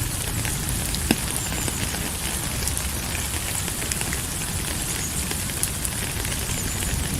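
Steady rain falling: an even hiss with scattered drop ticks and a low rumble underneath, and one sharper tick about a second in.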